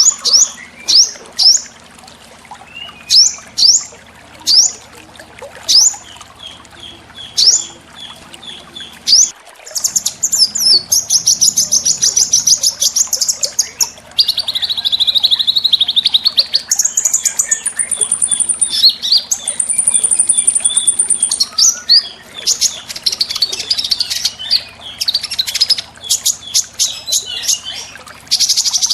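Small songbirds calling: for the first nine seconds, a string of sharp rising whistled notes about one a second. Then come rapid high trills and a buzzy rattle, with two long, very high, steady whistles in between.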